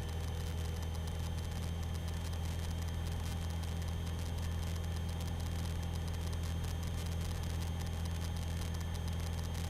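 Single-engine aerobatic aircraft's piston engine and propeller droning steadily at cruise, heard from inside the cockpit.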